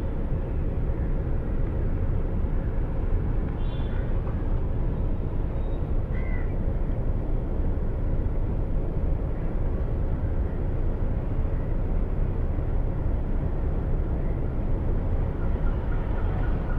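Steady low rumble of outdoor ambient noise, with a bird calling briefly twice, about four and six seconds in.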